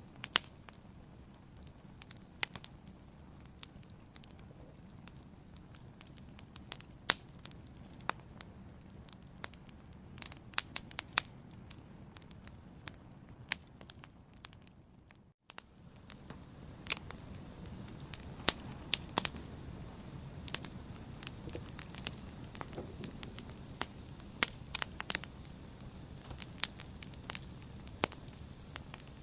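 Wood fire crackling in a fireplace: irregular sharp pops and snaps over a low steady hiss of burning. The sound drops out for a moment about halfway through, then resumes a little louder.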